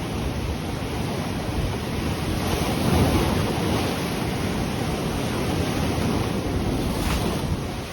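Ocean waves breaking and washing on the shore, with wind buffeting the microphone; the surf swells loudest about three seconds in.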